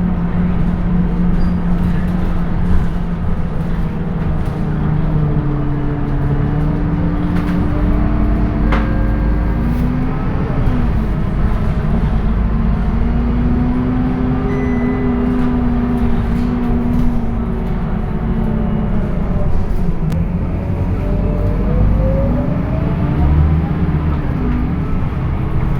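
Scania K230UB bus's diesel engine and ZF automatic gearbox running under way. The engine note holds steady, falls, and then rises again in glides as the bus slows, pulls away and changes gear.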